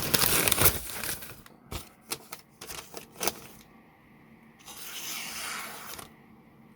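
Freshly sharpened knife blade making a test cut, a rasping, tearing slice through the material, followed by a few sharp clicks and a soft hiss about five seconds in.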